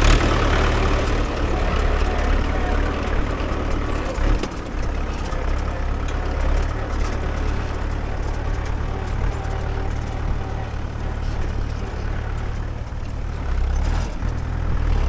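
Mahindra 575 DI tractor's four-cylinder diesel engine running steadily with a deep rumble as it pulls a nine-tine cultivator, dipping briefly about four seconds in.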